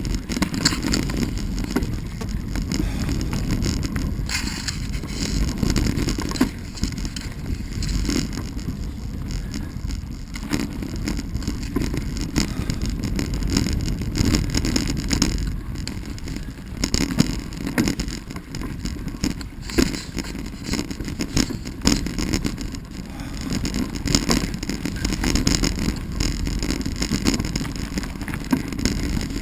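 Wheels rolling over a rough dirt trail with tree roots: a steady low rumble with frequent irregular clicks and rattles.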